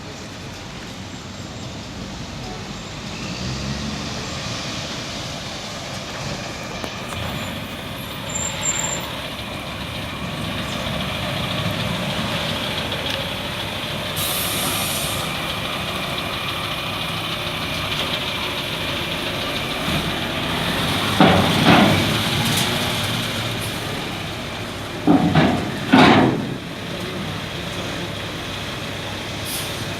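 Mack Granite dump truck's diesel engine running steadily, growing louder over the first several seconds. Loud short bursts come about two-thirds of the way through, twice more a few seconds later, and again near the end.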